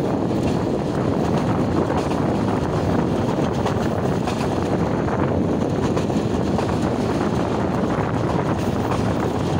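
Train running, a steady noise of wheels and carriage with wind on the microphone.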